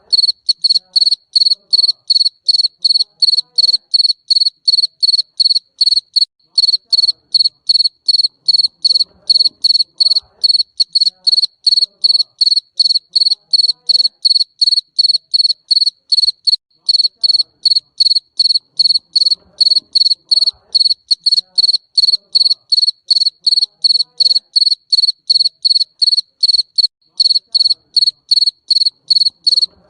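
Garden cricket chirping steadily: a high, clear note repeated evenly about two to three times a second.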